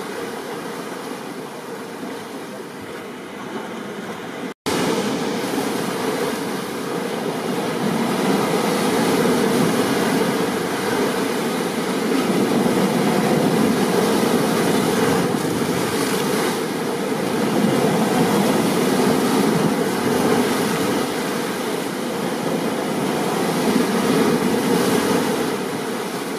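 Steady roar of storm rain and ocean surf. It drops out for an instant about four and a half seconds in, then carries on slightly louder.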